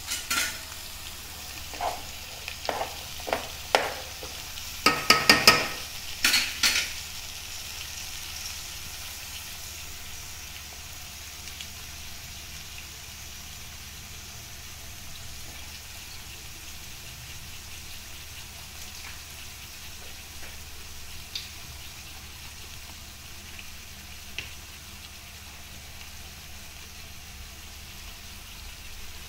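Chopped mixed vegetables frying in oil in a non-stick pot, a steady sizzle. Several sharp knocks and clatters come in the first seven seconds or so, the loudest around five to six seconds in.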